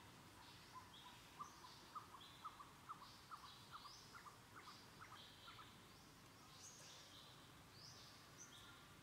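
Faint birdsong: short chirping phrases repeated again and again, with a run of brief lower chirps about two a second in the first half.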